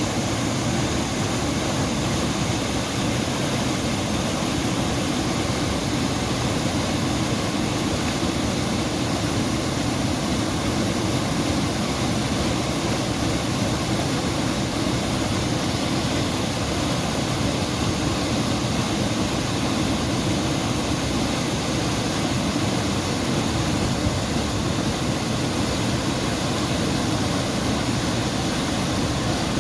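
Steady rush of a waterfall pouring into its pool, an even roar heaviest in the low range that does not change.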